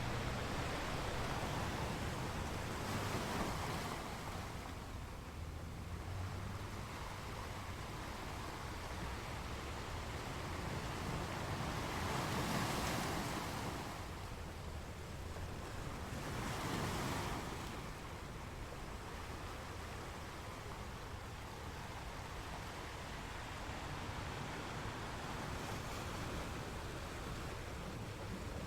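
Ocean waves breaking against rocks: a steady wash of surf with a louder surge every several seconds.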